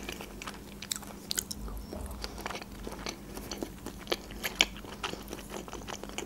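Close-miked chewing of soft food, a mouthful of avocado, with many short wet clicks and smacks of the mouth. About four seconds in a fork works on a plate, adding a couple of sharper clicks.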